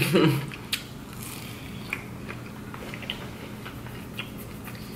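Close-up chewing of a fried mozzarella stick: soft, scattered mouth clicks and smacks.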